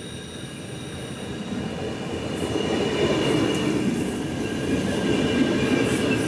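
Alstom Coradia LINT diesel multiple units running alongside the platform. The rumble of wheels and engines grows louder as the train comes past, with a steady high-pitched tone over it.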